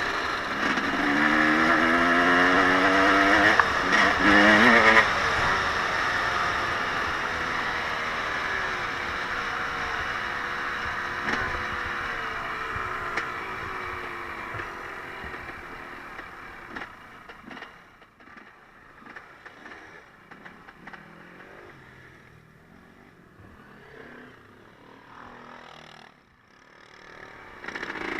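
Off-road motor vehicle engine revving up in rising pitch sweeps over the first few seconds, then fading steadily as it moves away. The middle and late part is much quieter with scattered faint knocks, and an engine revs up again near the end.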